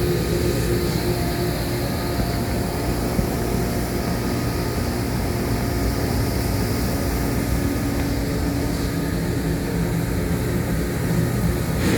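A steady mechanical drone with a constant low hum that holds even throughout.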